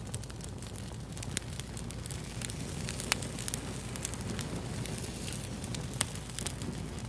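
Wood fire crackling: a steady hiss with frequent sharp pops and snaps, the loudest about a second and a half in, three seconds in and six seconds in.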